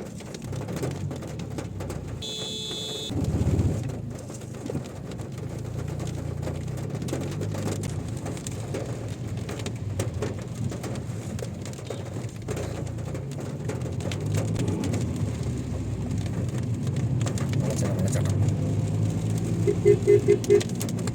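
Vehicle running in slow traffic, a steady low drone. A brief high beep sounds a couple of seconds in, and four quick short beeps come near the end.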